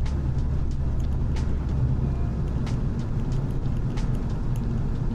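Steady engine and road noise heard inside the cabin of a Nissan Primera P11 while driving: a low rumble with a few faint light clicks.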